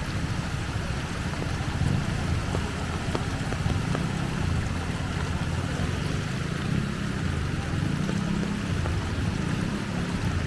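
Steady rush of flowing floodwater and rain, with a low rumble underneath.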